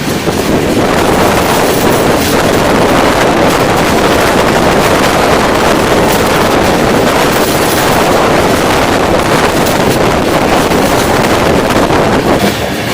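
Passenger train running at speed, a steady rushing roar of wind buffeting the microphone over the rumble of the moving carriage.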